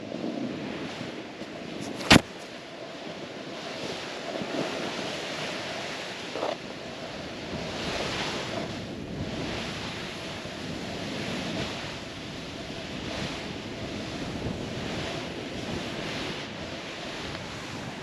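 Snowboard sliding and carving through powder snow in swelling hiss, with wind on the microphone. A single sharp knock about two seconds in.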